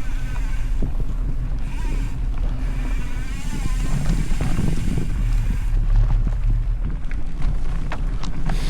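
Mountain bike rolling along a dirt trail: a steady rumble of wind on the microphone and tyres on the ground. From about six seconds in come sharp clicks and rattles from the bike.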